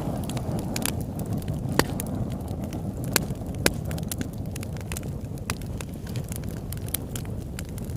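Campfire crackling, with irregular sharp pops of burning wood over a steady low rumble; a few pops stand out louder.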